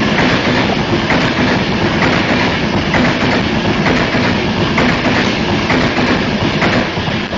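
Avanti West Coast Class 390 Pendolino electric train passing through at speed. A loud, steady rush of wheels and air, with a rhythmic clatter of wheelsets over the rail joints a little under once a second.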